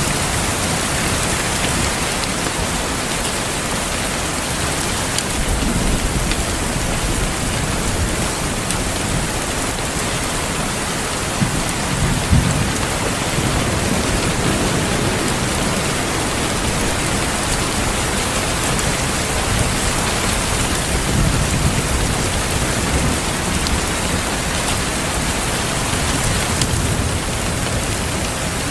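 Steady heavy rain hissing, with low rolls of distant thunder swelling up a few times, the strongest with two sharp cracks about twelve seconds in.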